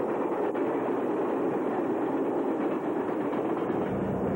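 Passenger train running past, a steady rumbling noise of its wheels on the rails.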